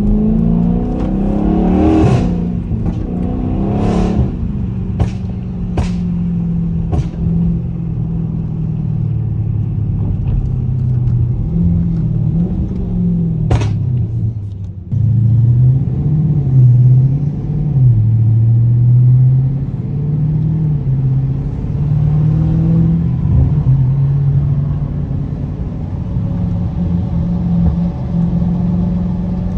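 Dodge Charger 392 Scat Pack's 6.4-litre HEMI V8 running under way, its note rising and falling with the throttle. Sharp exhaust pops from its pop tune come about once a second for the first seven seconds and once more about thirteen seconds in.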